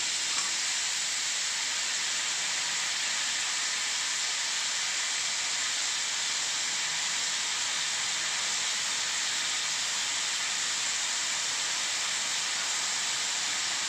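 Steady sizzling hiss of raw banana cubes, shallots and tomato frying in sesame oil in a kadai.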